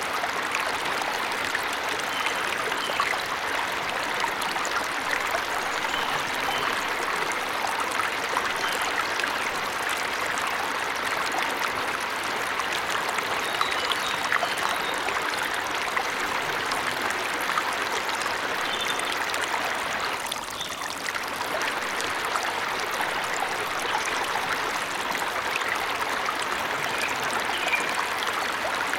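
Waterfall in a forest: falling water splashing and rushing in a steady, dense hiss, easing briefly about twenty seconds in.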